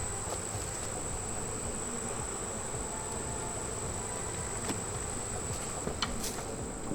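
Honeybees buzzing steadily around an open hive, with a few light knocks from the hive woodenware near the end.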